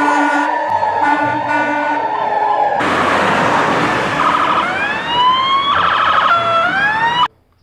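Emergency vehicle siren sounding. First comes a steady tone with repeated beeping tones over it. About three seconds in, a loud rush starts with rising wails, and it cuts off suddenly near the end.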